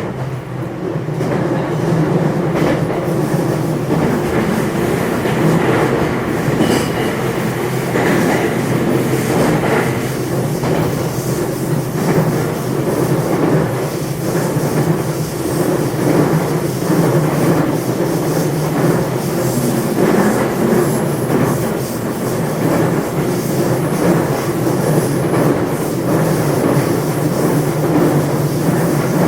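JR West 227 series electric train (motor car KuMoHa 227-7, Hitachi IGBT VVVF) running along the line, heard from inside the car: a steady, loud rumble of wheels on rail with repeated clatter over rail joints. The noise swells over the first couple of seconds and then holds steady.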